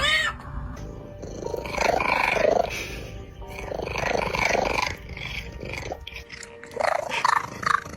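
A cat meowing: a short meow at the start, then two long, drawn-out meows about two and four seconds in, and shorter, choppier cat sounds near the end.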